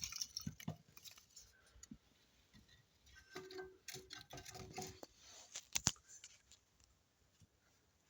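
Thin kindling sticks being laid into a small wood stove onto a lit fire starter: faint scattered light wooden clicks and knocks, with two sharper knocks about six seconds in.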